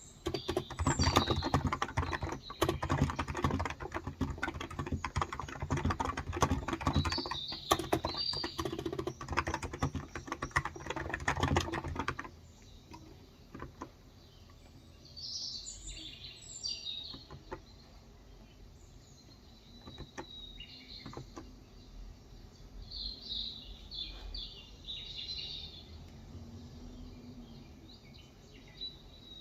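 Fast, continuous typing on a Cox Endeavor electro-capacitive (Topre-style) 35 g tenkeyless keyboard, stopping about twelve seconds in. Small birds chirp in bursts throughout, heard plainly once the typing stops.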